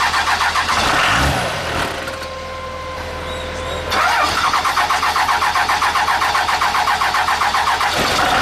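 Starter cranking a 12-valve Cummins diesel on starting fluid with a fast, rhythmic churn. It stops for about two seconds and then cranks again, and near the end the engine catches and runs.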